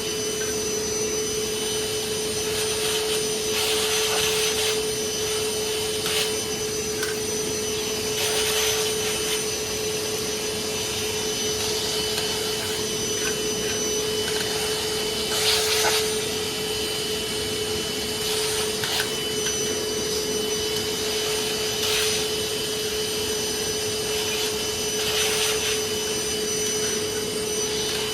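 Vacuum cleaner motor running steadily with a steady hum, while a louder hiss surges every three to four seconds, as in cleaning dirt out of a gas furnace's burner compartment.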